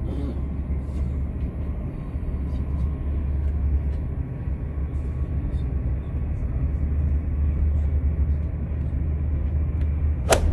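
Steady low rumble of a Euroduplex TGV high-speed train, with a single sharp click near the end.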